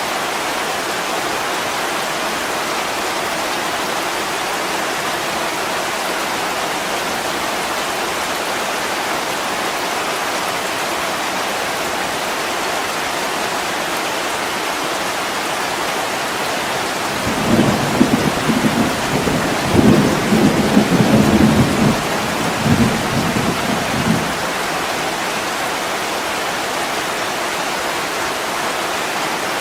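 Steady heavy rain hissing on a window. About halfway through, a low roll of thunder rumbles in three or four swells for several seconds, then dies away under the rain.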